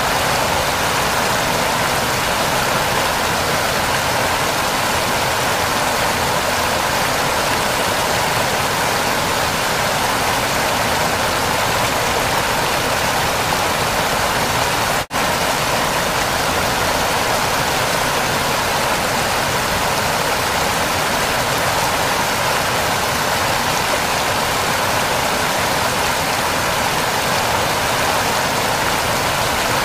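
Waterfall: a steady, unbroken rush of falling water, cutting out for an instant about halfway through.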